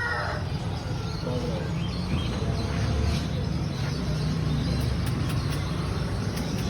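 Birds chirping in short, scattered calls over a steady low rumble of background noise.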